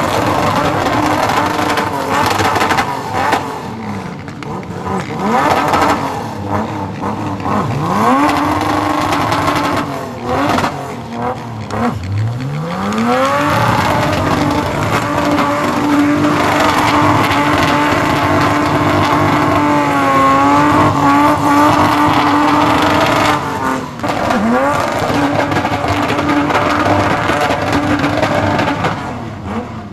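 Car engine revving hard, climbing steeply in pitch several times, then held at high revs for about ten seconds with a brief wavering in pitch near the end of that stretch.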